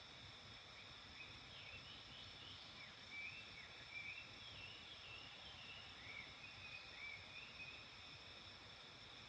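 Faint bird song, a string of short chirped notes starting about a second in and stopping near the end, over a steady high insect drone.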